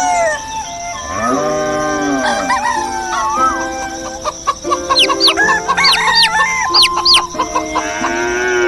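Rooster crowing, followed by a run of quick rising bird chirps in the second half.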